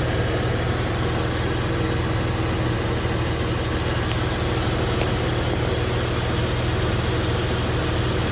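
1999 Porsche 986 Boxster's 2.5-litre flat-six idling steadily, fully warmed up.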